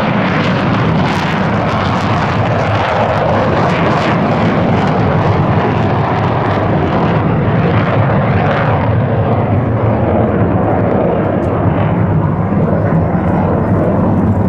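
Military jet engine noise, loud and steady, with the hiss softening after about seven seconds while the low rumble holds.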